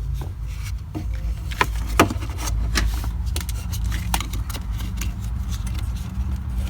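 Scattered light clicks and scrapes of hands handling small plastic parts, fitting a new fuel pump relay, over a steady low rumble.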